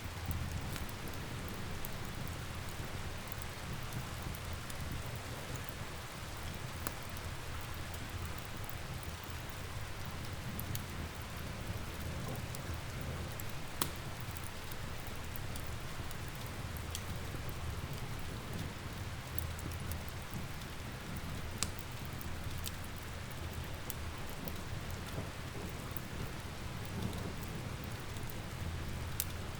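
Steady rain ambience with a low rumble underneath, mixed with the sharp crackles and occasional louder pops of a wood fire.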